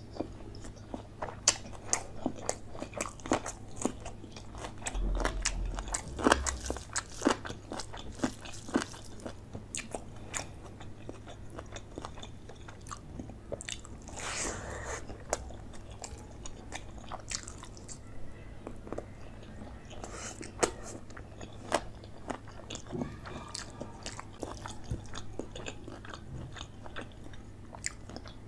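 Close-miked chewing and biting of chicken leg curry and rice eaten by hand: many sharp, irregular clicks and smacks of the mouth, with a brief hiss about halfway through.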